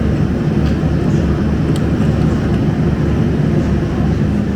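Scania K250UB bus's diesel engine running steadily with a low drone.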